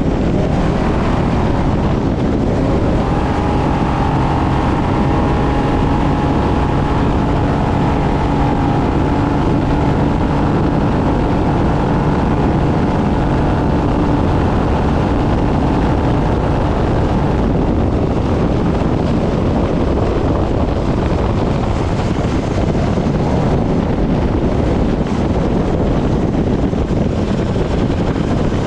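Class 6100 desert race truck's engine running hard at speed, mixed with heavy wind and rough-terrain road noise. The engine note holds fairly steady.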